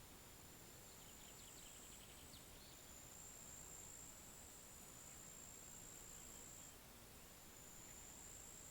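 Faint, steady high-pitched insect trill with a brief flurry of faint short chirps about a second in.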